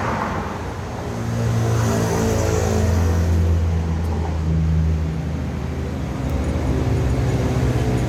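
Motor vehicle engine running, with road traffic noise; its low hum swells and changes pitch a few times.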